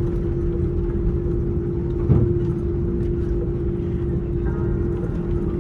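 Airbus A330-200 cabin noise: a steady droning hum over a low rumble, with a single thump about two seconds in.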